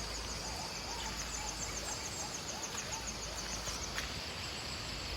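Outdoor ambience of insects droning steadily at a high pitch, with a rapid series of short high chirps through the first three and a half seconds.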